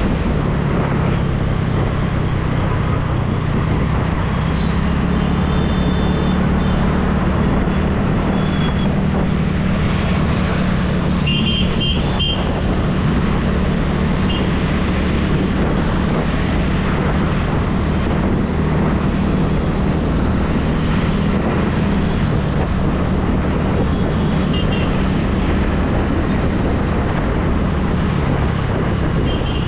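TVS NTorq 125 scooter's single-cylinder engine running steadily under way, with wind and road rush over the microphone and city traffic around it. A few short horn beeps sound along the way, a cluster of them about twelve seconds in.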